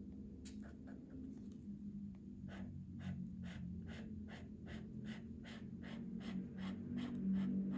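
Colouring strokes scratching on paper, back-and-forth shading at an even pace of about three strokes a second, over a low steady hum.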